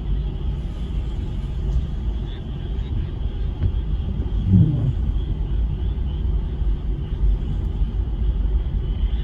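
A chorus of frogs calling steadily over a continuous low rumble, which is the loudest sound; a brief low hum about halfway through.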